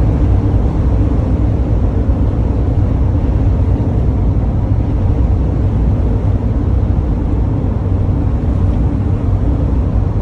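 Steady drone of a moving road vehicle's engine and tyres, heard from inside the vehicle, low-pitched and unchanging.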